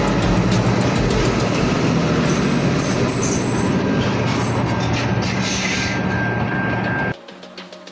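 Diesel railcar train, an Adelaide Metro 3100-class pair, running past close to the platform with a steady rumble of engine and wheels. About seven seconds in, the train sound cuts off suddenly and quieter music takes over.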